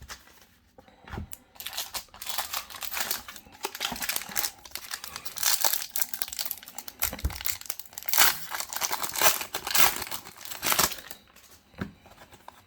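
Foil wrapper of a Pokémon trading card booster pack crinkling and tearing as it is opened by hand, in a dense, irregular crackle that starts about a second in and dies away near the end.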